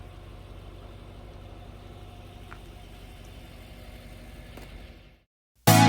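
Car engine idling steadily, a low even hum that cuts off near the end.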